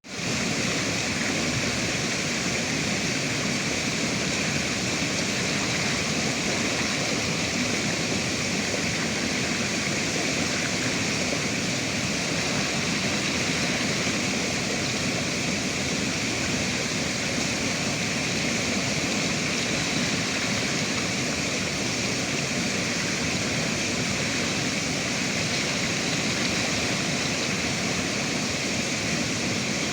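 River water rushing in a steady, even flow, fading in at the very start.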